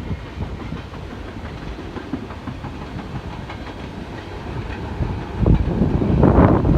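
Freight train cars rolling past with a steady rumble and wheels clicking over the rail joints. The sound swells into a louder, heavier rumble about five seconds in.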